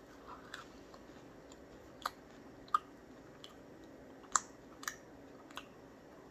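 Chewing a crunchy Chex Mix window pretzel with the mouth closed: about seven sharp crunches at irregular intervals.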